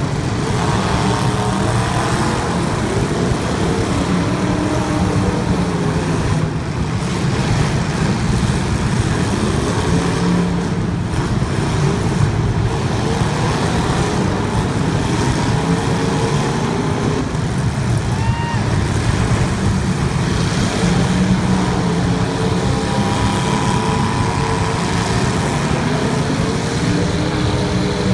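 Several racing engines running hard together, their pitch rising and falling again and again as the cars accelerate, lift off and pass.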